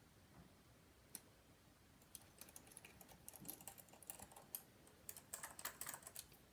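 Faint, rapid, irregular clicking and ticking of a precision screwdriver working the small pentalobe screws on the bottom of an iPhone 5 during reassembly, starting about two seconds in.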